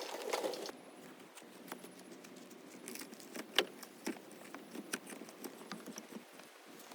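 Portable generator being pulled across rough ground, its frame and handle rattling with irregular clicks and knocks.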